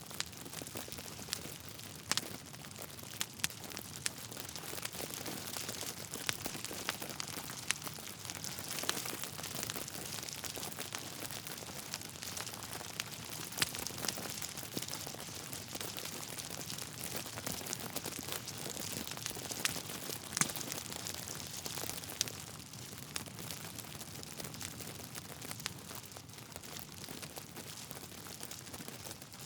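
Wood fire crackling in a fireplace: a steady hiss with frequent irregular pops and snaps, a few sharper than the rest.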